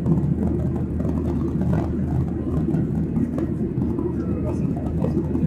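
Steady low drone of a Boeing 737-800's CFM56 jet engines and airflow, heard inside the passenger cabin.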